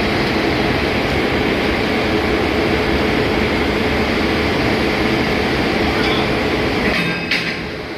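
Loud, steady machinery noise of a ship's engine room, a dense roar with a faint steady hum through it; a short higher-pitched sound comes through about seven seconds in.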